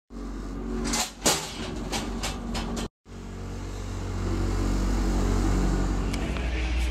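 Vehicle engine running steadily, with several sharp knocks over it during the first three seconds. The sound cuts out briefly just before three seconds in, then resumes as a steadier, slightly louder engine hum.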